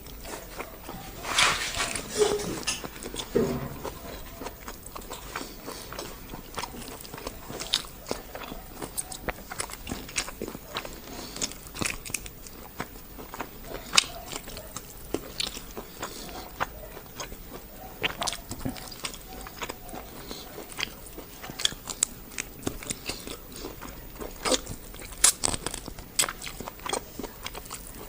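Close-up eating sounds of someone biting and chewing karahi: irregular wet smacks and small clicks from the mouth, with a louder crunch about a second and a half in.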